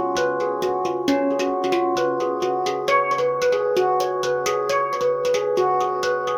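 Meridian handpan in C# Ragadesh being played in a quick, even run of struck notes, about five a second, each note ringing on under the next.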